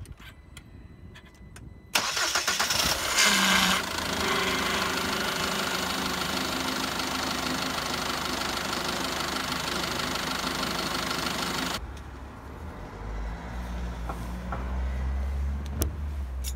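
SsangYong Korando Sports engine cranked and started about two seconds in, then running steadily at idle for about ten seconds before it is switched off abruptly. It is run so the power steering pump pushes the old fluid out through a drain hose into a bottle. A low rumble continues after it stops.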